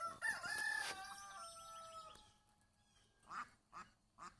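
A rooster crowing once, one long call of about two seconds that steps down in pitch toward its end, followed by three short calls near the end.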